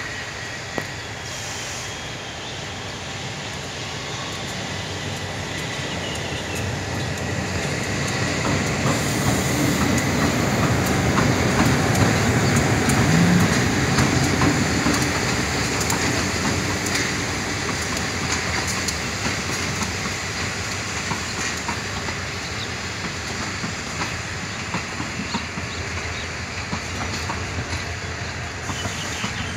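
Diesel locomotive hauling a passenger train past at close range as it pulls away from a station. The rumble builds to its loudest about halfway through, then the coaches roll by with a steady clickety-clack of wheels over the rail joints, slowly easing off.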